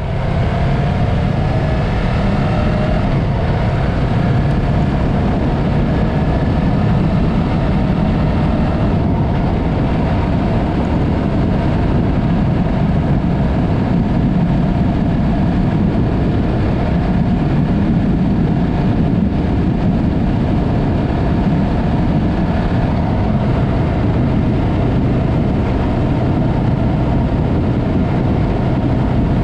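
Yamaha MT-03's parallel-twin engine running steadily through an aftermarket Mivv exhaust while the motorcycle is ridden.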